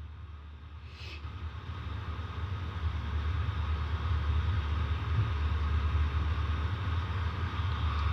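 Outdoor central air-conditioner condenser running, a steady low hum with a grinding, whirring noise over it from a failing compressor, which the owner thinks has damaged internal scrolls. It grows louder over the first few seconds as the unit gets closer.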